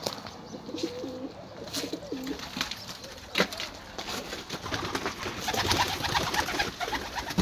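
Domestic pigeons cooing, several low rolling coos in the first two seconds and shorter calls later, over scattered sharp clicks and knocks, the loudest about three and a half seconds in.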